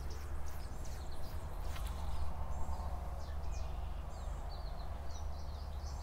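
Songbirds chirping and calling in many short high notes over a steady low rumble.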